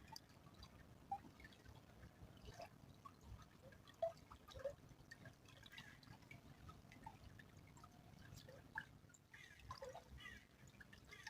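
A small stream trickling, faint, with scattered drips and plinks of water, the sharpest about four seconds in.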